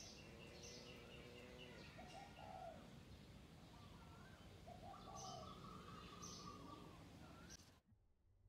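Faint outdoor birdsong: a short, repeated call about every two seconds, with a longer held note and high chirps from other birds. It cuts off abruptly shortly before the end, leaving near silence.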